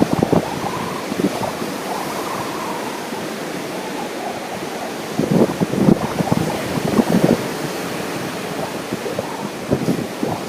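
Ocean surf with strong wind buffeting the microphone, the rumbling gusts coming at the start, again about halfway through, and near the end.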